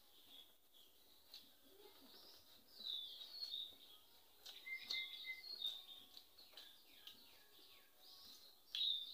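Small birds chirping in short bursts of quick high calls, three groups with quieter gaps between, alongside a few faint clicks.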